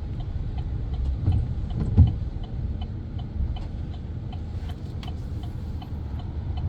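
Pickup truck's turn signal clicking steadily, about two clicks a second, over the low rumble of the engine heard inside the cab. A single dull thump about two seconds in.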